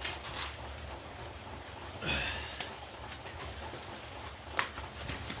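Firewood logs knocking and scraping as they are pushed into the firebox of a wood-fired boiler: a few separate sharp knocks over a steady low background.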